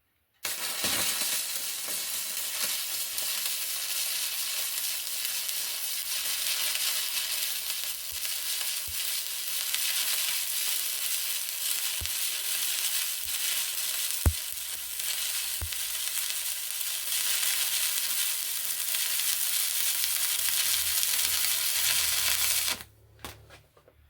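Stick (arc) welding a 6mm steel exhaust flange plate with a stainless electrode: the arc's steady crackling sizzle with a few sharp pops. It stops abruptly about a second before the end.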